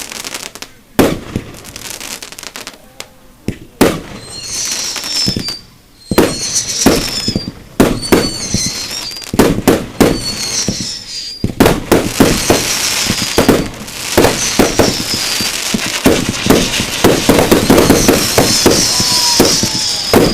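Fireworks display: loud aerial-shell bangs a couple of seconds apart, with short high falling whistles between them, building about halfway through into a rapid barrage of bangs and crackle.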